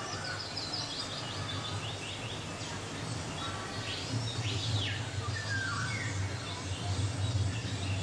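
Birds chirping and trilling: a run of short repeated chirps in the first couple of seconds and a sweeping, looping call around the middle, over a steady low hum.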